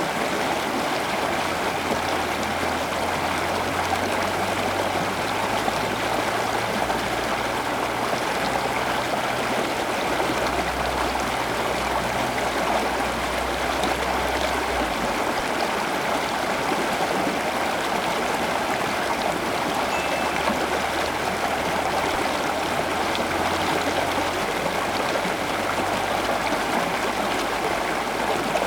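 Steady rushing of running water, like a stream, with a low hum underneath for a stretch in the middle.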